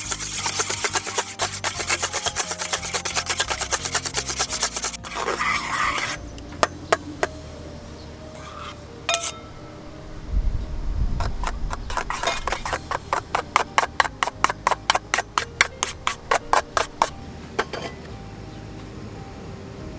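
Knife shaving thin curls off a wooden stick to make a feather stick: quick scraping strokes, about five a second, in two runs with a pause and a few single strokes between. Soft background music underneath.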